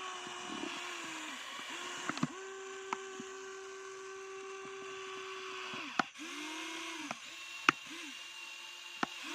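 Small electric motor of a toy dump truck whining in short runs, stopping and restarting several times, with one longer run of about three and a half seconds. Sharp clicks fall between the runs, the loudest shortly before the end.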